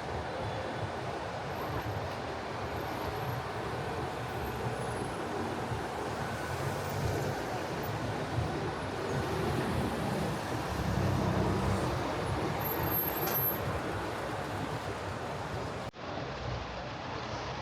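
City street ambience: a steady rumble of traffic, with a vehicle passing louder about two-thirds of the way through. The sound cuts out abruptly near the end.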